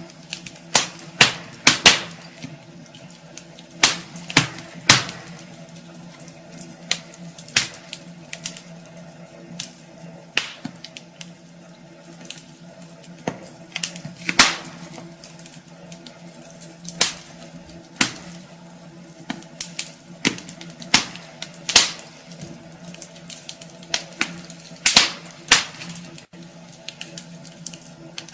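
Wood fire burning in a fireplace, crackling with sharp, irregular pops, some loud, over a steady low hum.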